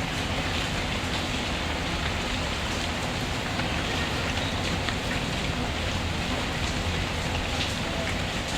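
Steady rain falling, an even hiss of drops with a few faint sharper ticks.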